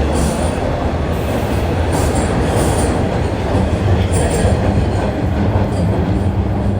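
Subway train running: a steady loud rumble of wheels on track, with brief faint high squeals now and then.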